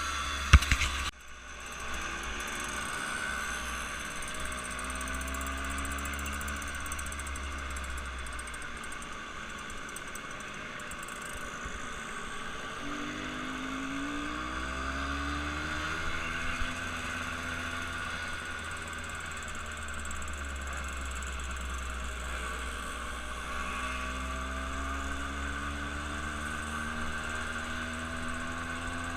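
Car engine and road noise while driving, the engine's pitch slowly rising and falling, with a sharp knock about half a second in.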